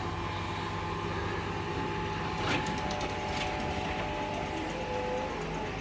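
Wheel loader's diesel engine running steadily with a thin whine, and a short run of metallic clicks and rattles about two and a half seconds in, as slack is taken out of the recovery line.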